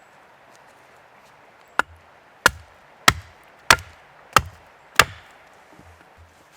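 Wood being chopped: six sharp chopping strokes in quick succession, about two every second, the first one lighter.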